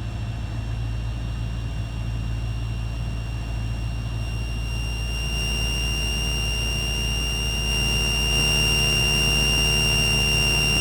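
Light aircraft's engine and propeller droning steadily, heard from the cockpit on approach. A steady high-pitched whine comes in over it and grows louder from about halfway through, and the drone gets a little louder near the end.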